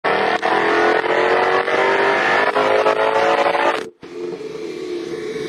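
Car engine accelerating hard, its pitch rising steadily. About four seconds in it cuts off abruptly to a quieter, steady engine drone.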